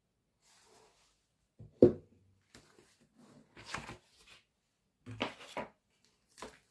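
Hands handling a boxed merchandise package and its contents: a few separate knocks and rustles of cardboard and plastic, the loudest knock about two seconds in.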